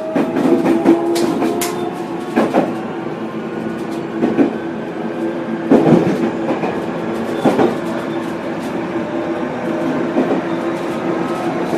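Onboard running sound of a JR Central 373 series electric train: a steady whine from its Toshiba GTO VVVF inverter and traction motors over the running noise, with the clack of wheels crossing rail joints every second or two.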